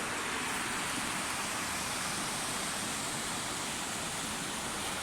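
Steady rushing of flowing river water, an even hiss that holds at one level.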